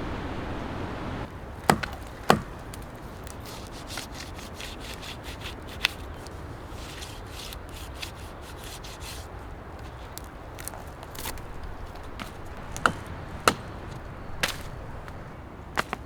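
Sharp wooden strikes, like wood being chopped or split: two hard hits about two seconds in and a few more near the end. Between them runs a stretch of many small cracks and clicks, over a low rushing background.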